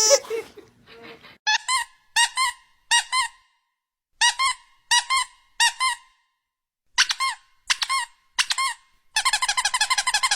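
Repeated short, high squeaks, mostly in twos and threes with pauses between, then a fast run of about a dozen squeaks a second near the end.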